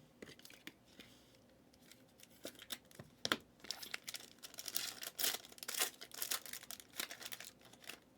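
Trading card pack wrapper being torn open and crinkled. There are scattered light clicks at first, then steady rustling and crackling from about two and a half seconds in.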